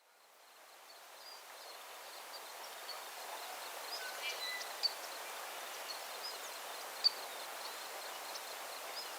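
Outdoor nature ambience fading in over the first two seconds: a steady rustling hiss with many short high chirps scattered through it, and two sharp clicks, one near the middle and one a couple of seconds later.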